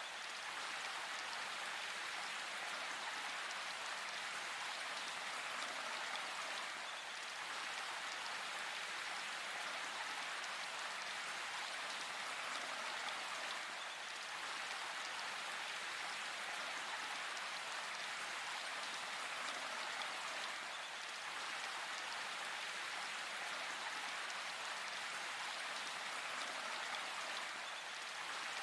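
Steady rain falling in a forest, an even hiss of drops with no distinct impacts.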